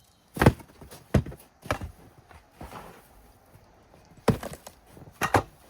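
A series of crunching thuds in packed snow: three about half a second apart, a softer one midway, then two or three more close together near the end.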